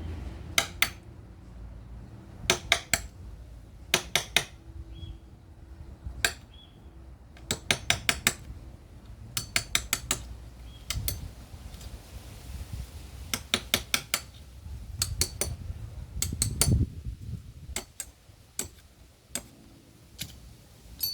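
Sharp metallic taps in quick clusters of two to five, repeating every second or two, over a low background hum.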